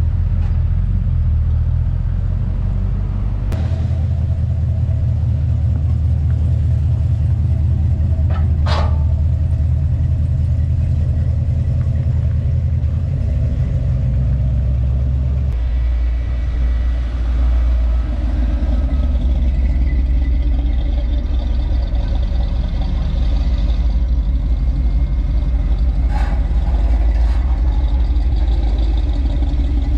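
Car engines idling and pulling away, a deep, steady rumble. It changes pitch about four seconds in and again about halfway through, as one engine gives way to another.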